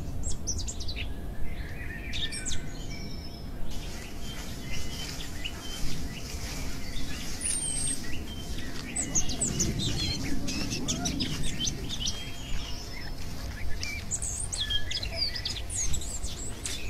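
Several birds chirping and twittering, with many short high calls overlapping throughout, over a steady low rumble.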